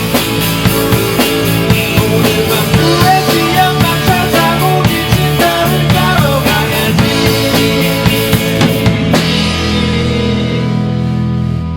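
Rock band playing live: a drum kit with snare and bass drum pounding steadily under bass, guitar and keyboard. The cymbals drop out about nine seconds in.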